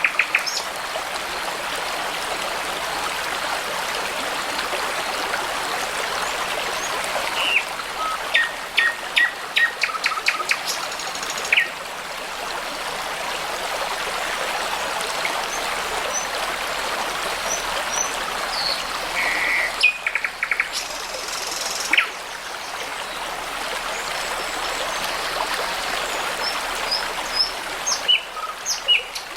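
A brook babbling steadily, with songbirds calling over it in three short bouts of chirps and rapid clicking notes, about a quarter of the way in, around two thirds in, and near the end.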